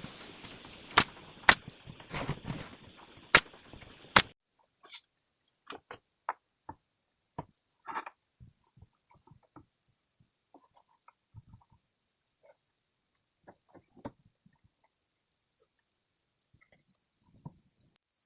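Steady high-pitched chirring of crickets, with four sharp knocks in the first four seconds and a few faint light taps after that.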